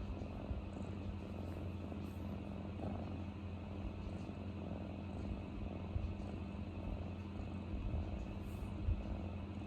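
Domestic cat purring steadily, a low rumble that swells and eases about once a second with its breathing.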